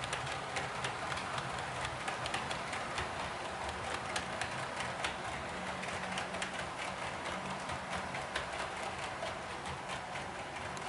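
HO-scale model train running on the layout track: a steady low hum with many small, irregular clicks.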